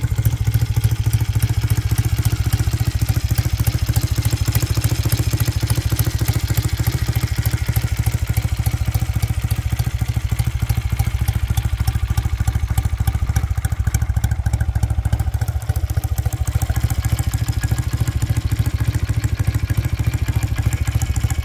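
1970s BSA motorcycle engine idling steadily with an even, rapid beat, running smoothly and "purring like a kitten".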